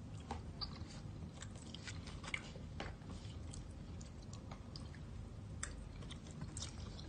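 A person chewing a mouthful of soft gnocchi close to the microphone: faint wet mouth sounds with small clicks scattered throughout.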